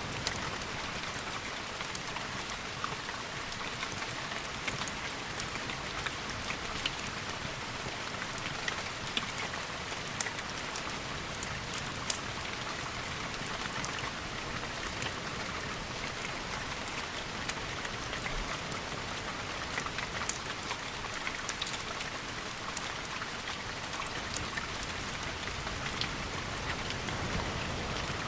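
Steady rain falling against windows, an even hiss scattered with frequent sharp ticks of drops striking.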